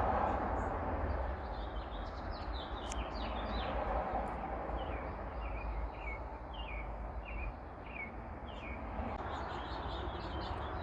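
A bird chirping a quick run of short, falling notes, about two a second, over a steady background hiss.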